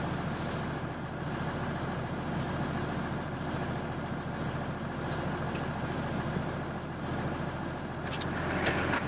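Semi-truck's diesel engine idling steadily, heard from inside the cab, with a few faint ticks.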